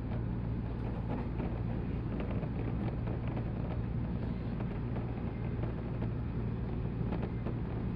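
A 185 series electric train running: a steady low hum with an even rumble of wheels on rail.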